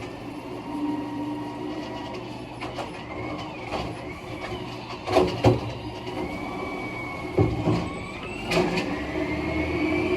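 Garbage truck engine running, with a whine that climbs in pitch through the second half and several sharp metallic clanks about halfway through.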